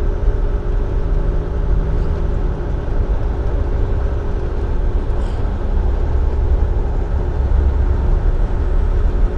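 Cab of a Volvo dump truck while driving: its D13 inline-six diesel engine and road noise make a steady, deep drone.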